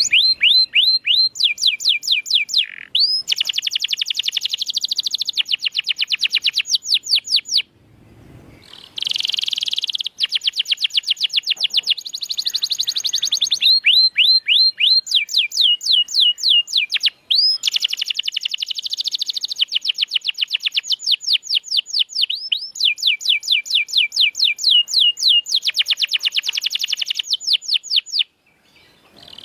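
Domestic canary singing in full song: rapid trills of repeated high, downward-sweeping notes, changing from one trill to the next every second or two. The song breaks off briefly about eight seconds in and again near the end.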